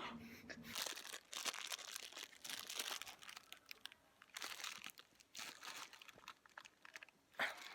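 Packaging crinkling and crunching in irregular short bursts as it is handled and worked at to open it.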